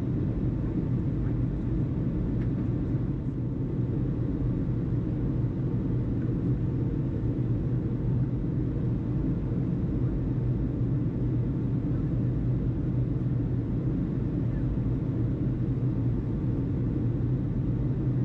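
Steady low rumble with no radio transmission, the same background that runs under the tower-frequency speech before and after.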